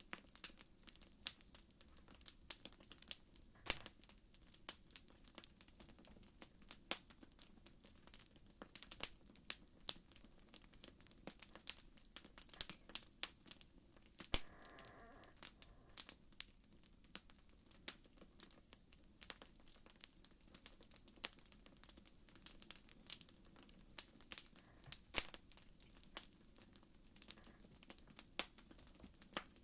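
Campfire crackling faintly: irregular sharp pops and snaps, several a second, over a soft low rumble.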